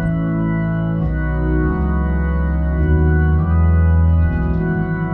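Hammond A100 organ played through a Leslie 45 speaker: sustained chords in the key of E with bass notes changing underneath, a soft pad of 'talk music' backing.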